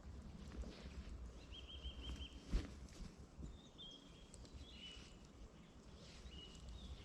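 Small bird calling in short high chirps, including a quick trill of about five notes, over a low steady rumble. A single sharp snap or knock about two and a half seconds in.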